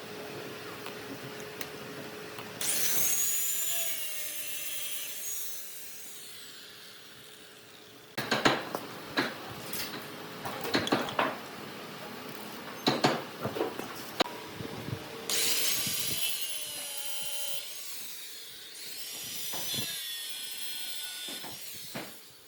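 Woodworking power tool cutting wood, running twice with a high whine that dips and wavers as it bites. Between the two runs comes a series of sharp knocks and taps on wood.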